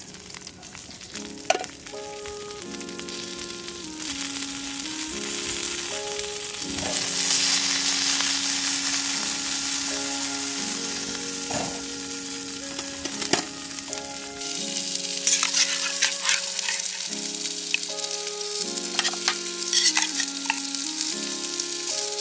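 Food sizzling and frying in a pan, with sharp crackles and pops now and then and stirring, over a slow background melody. The sizzle grows louder about four seconds in.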